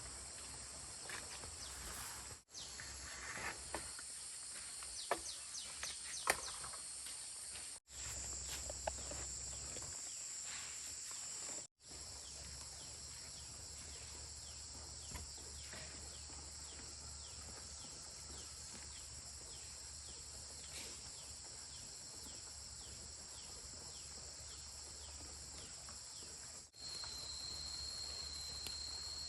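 A steady, high-pitched chorus of insects chirping, with a few faint clicks and knocks in the first several seconds. The sound cuts out briefly a few times.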